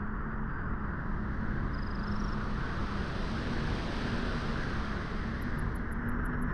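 Wind blowing steadily at a beach, a continuous rushing noise that swells slightly in the first second, with a faint short chirp about two seconds in.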